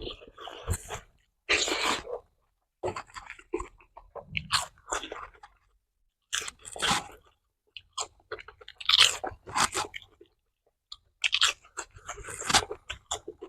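A person biting and chewing crunchy food close to the microphone: loud, irregular crunches in clusters with short pauses between mouthfuls.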